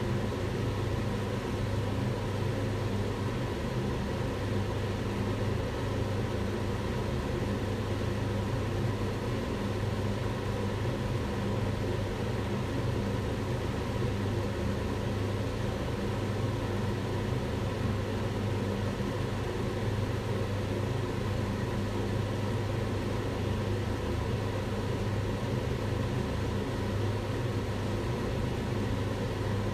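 Kitchen range hood fan running steadily: an even rush of air with a low hum underneath.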